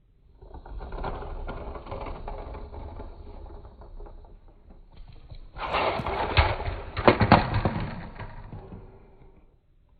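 Plastic rattling of a LEGO toy car being run along a surface, then a louder clatter of LEGO pieces with several sharp knocks about six to seven and a half seconds in, as in a toy crash.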